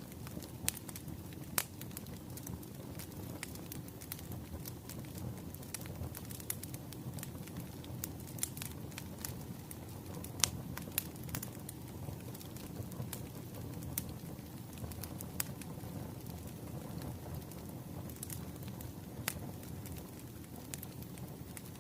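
Wood fire crackling: a steady low rumble of burning logs with irregular sharp pops and snaps scattered throughout.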